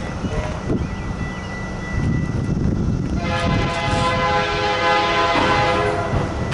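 Air horn of Amtrak GE B32-8WH locomotive #518, leading a Hiawatha passenger train, sounding one long blast of a chord of several notes about three seconds in and lasting nearly three seconds, over a low rumble.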